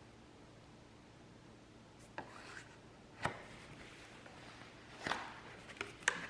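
Quiet, then a few short scrapes and rubs with a sharp tap about three seconds in, from paint cups and tools being handled during acrylic pouring.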